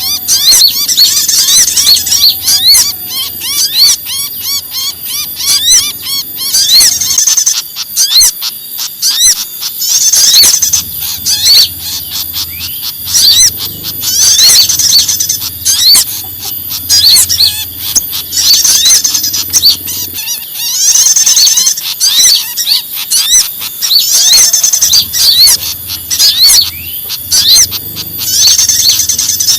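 Many small songbirds giving rapid, high-pitched agitated alarm chatter, in dense clusters of chirps every second or two. It is a mixed recording of birds calling 'ribut kejepit', as if caught or in distress, which is used to lure small birds.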